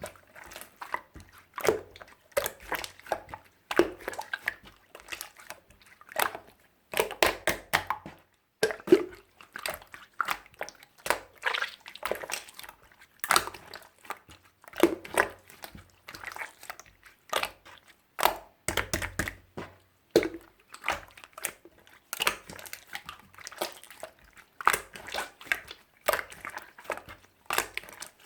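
Clear slime being squished, folded and pressed by hand, giving clusters of sticky clicks and small air-bubble pops every second or two.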